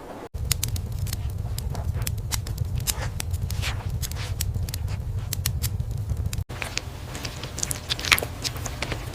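Irregular crackling and sharp clicks over a steady low rumble, cutting out abruptly twice.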